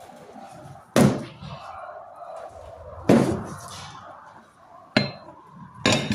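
Four sharp hammer blows on steel, about two seconds apart with the last two closer together, each with a short metallic ring. The blows are struck to shock loose a broken exhaust manifold stud in a VW cylinder head.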